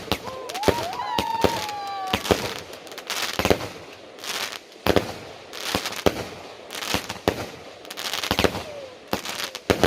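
Fireworks going off: a quick, uneven series of sharp bangs, often more than one a second, with crackling between them.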